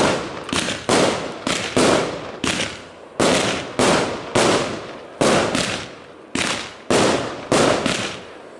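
Aerial fireworks bursting in rapid succession, a sharp bang about twice a second, each one trailing off before the next.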